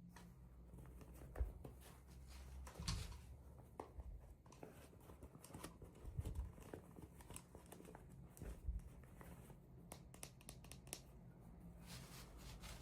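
Faint handling of small toys and their packaging during unboxing: scattered soft clicks and taps, with light tearing and crinkling.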